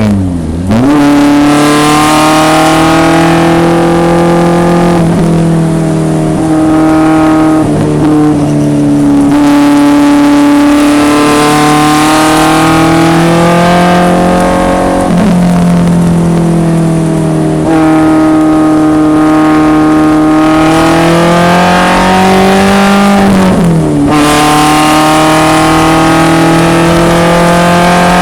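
1974 BMW 2002 racecar's four-cylinder engine running hard on track, its pitch climbing slowly under load. A few brief lifts and gear changes break the tone, with a sharp drop and recovery in revs near the start and again about 24 seconds in.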